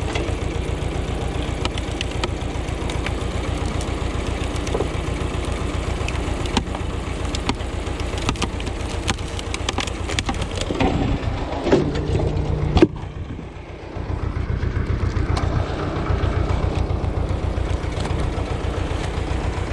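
Ursus tractor engine running steadily, with scattered clicks and knocks. There is a sharp loud knock about 13 seconds in, after which the sound drops briefly before the engine comes back.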